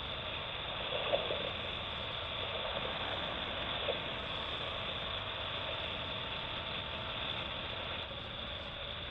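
BMW R1200GS Adventure's boxer-twin engine running steadily under way, blended with wind and road noise. Two brief louder blips come about a second in and near four seconds.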